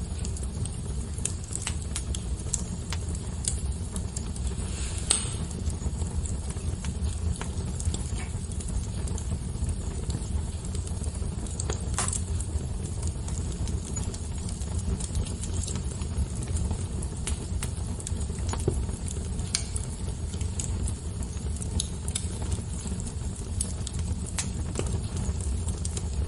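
Fire crackling: irregular sharp pops and snaps over a steady low rumble, with a couple of louder pops about five and twelve seconds in.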